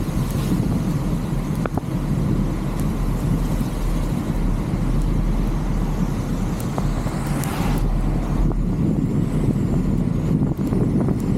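Wind and road rumble on a roof-mounted camera of a moving vehicle: a steady, dense low rush with a few faint clicks, and a short hiss rising in pitch about seven seconds in.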